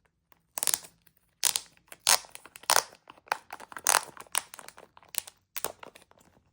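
Plastic wrapping crinkling and crackling in a quick, irregular run of bursts as it is pulled and torn open by hand.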